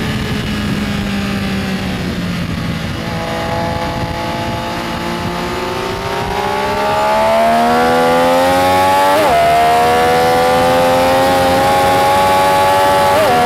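Benelli Tornado Tre 900's inline three-cylinder engine pulling under load: the revs sag for a few seconds, then climb hard and grow louder. A quick upshift cuts the pitch about two-thirds of the way through, and a second comes near the end.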